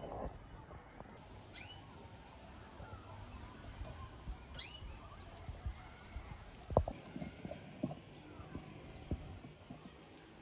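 Small aviary birds chirping: short, high, falling chirps now and then, then a quick run of chirps near the end, over a steady low background hum, with a couple of soft knocks.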